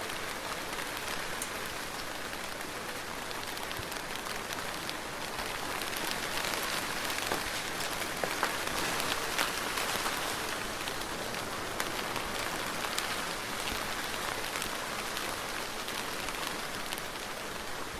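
Soft, steady rain falling, a dense patter of individual drops over an even hiss, swelling slightly in the middle.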